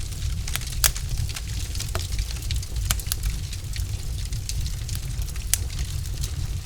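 Wood fire in a fireplace crackling: irregular sharp pops and snaps of burning logs over a low steady rumble of flame.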